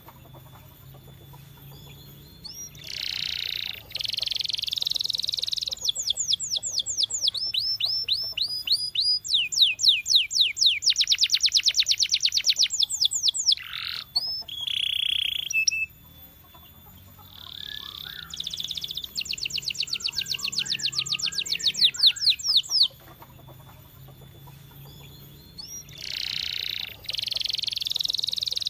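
Domestic canary singing: phrases of rapid trills made of quickly repeated notes that each sweep down in pitch, alternating with harsher buzzy rolls, with pauses of a second or two between phrases.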